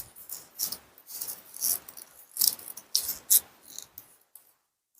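Origami paper being folded and creased: a run of short rustles and crinkles that stops about four seconds in.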